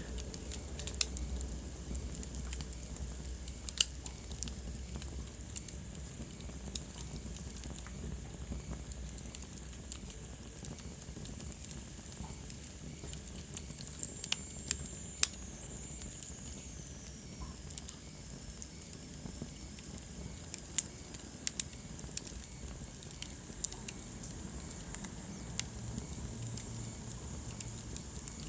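Wood fire crackling in a fireplace: irregular sharp pops and snaps over a steady soft hiss, with a faint high whistle that slides down in pitch about halfway through.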